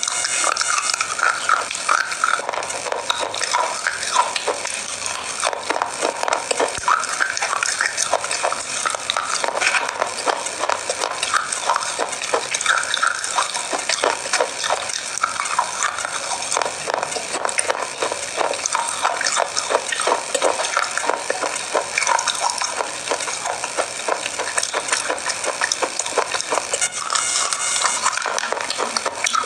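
Close-miked chewing of crunchy chocolate Bourbon biscuits: a continuous dense crackle of small crunches, with a fresh bite near the end.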